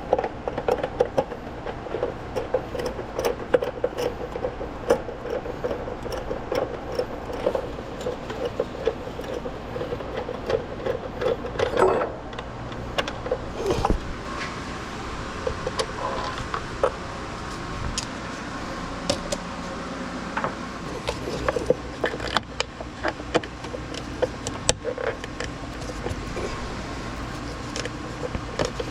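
Hand-tool work under the hood during a spark plug and ignition coil change: irregular small metallic clicks, taps and knocks of sockets, wrenches and parts, over a steady low hum.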